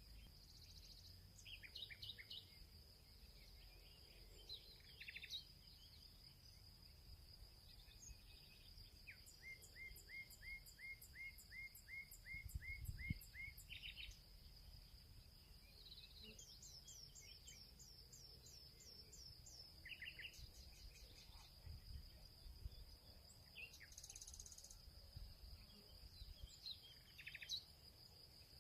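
Faint field ambience: a steady high-pitched insect trill with several birds calling over it, including a rapid run of about a dozen repeated chirps about a third of the way in and a series of high sweeping notes just past the middle.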